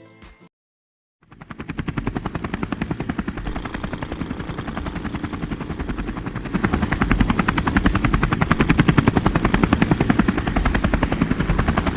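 Helicopter rotor spinning up for takeoff: a fast, even chopping that starts about a second in and grows louder about halfway through.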